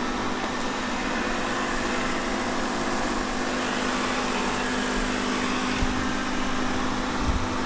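Qihoo 360 S9 robot vacuum running, its motor and brushes making a steady hum, with a couple of soft low knocks near the end.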